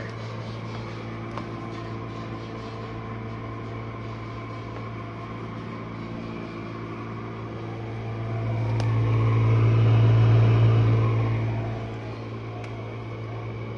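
Jenn-Air dishwasher running with a steady, loud motor hum and a low drone. About two-thirds of the way through it swells louder for a few seconds, then settles back.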